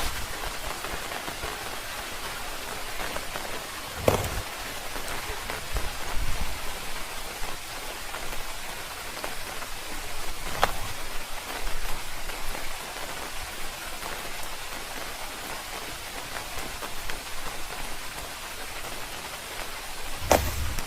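Steady rain falling on a surface, with a few louder sharp knocks about four, ten and twenty seconds in.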